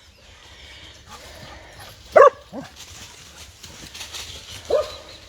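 Dog barking: a few short barks, the loudest about two seconds in.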